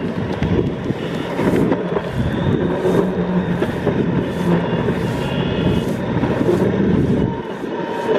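Longboard wheels rolling on pavement: a steady rumble with a low hum and light ticks about twice a second. The rumble eases near the end.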